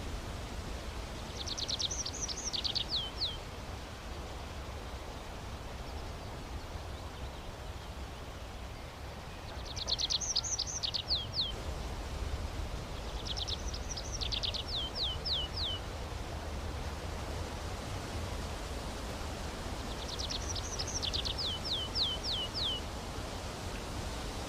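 A songbird singing four phrases, each a quick run of high notes ending in a few slower notes that slide downward, over a steady outdoor hiss and low rumble.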